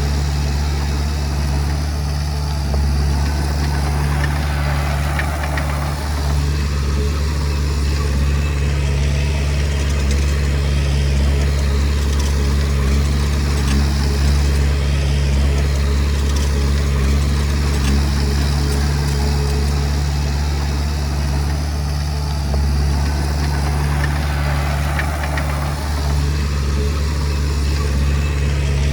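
Small Komatsu D20P crawler bulldozer's diesel engine running steadily with a deep, even drone, its upper sound swelling and easing every few seconds as it works.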